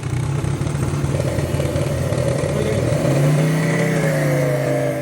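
A vehicle engine running steadily after an oil change, its pitch rising a little about three seconds in.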